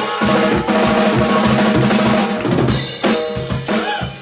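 Rock drum kit played live in a short solo, with rapid bass drum and snare hits and cymbals, over a steady held tone.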